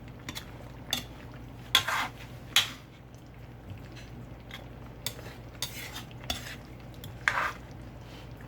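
A spoon stirring and scraping in a pot of chicken curry, with a string of separate metal clinks against the pot, the loudest about two seconds in and again near the end.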